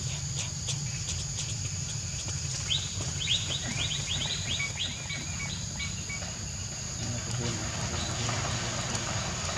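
Outdoor ambience: a bird gives short falling chirps, with a quick run of them starting about three seconds in, over a steady high-pitched insect drone and a low rumble.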